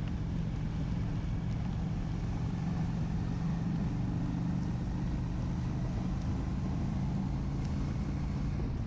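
Honda Shadow 750's V-twin engine running at a steady speed under way, with a continuous rush of wind and road noise.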